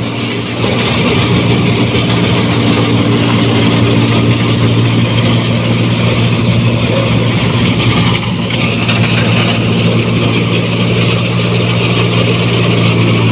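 New Holland 1545 combine harvester running, its diesel engine humming steadily through a loud aftermarket exhaust under a continuous clatter of the machine's working mechanism; the sound gets louder about half a second in.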